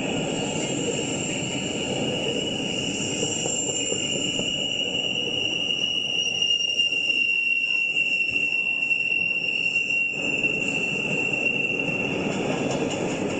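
A long freight train of empty intermodal well cars rolling past: a steady rumble of wheels on rail, easing for a few seconds midway, with a steady high squeal running through it.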